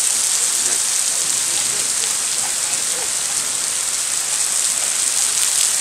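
Heavy thunderstorm rain pouring down in a steady hiss.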